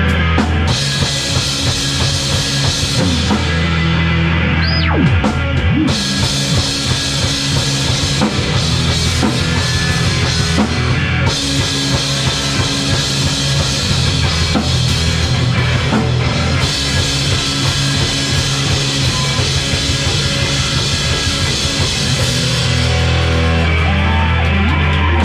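A live rock band playing loud and full with a drum kit, an instrumental stretch without vocals. The low notes shift about 23 seconds in.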